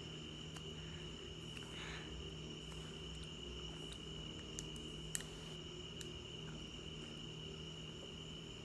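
Quiet room tone with a steady high-pitched whine and a low hum, broken by a few faint clicks and taps.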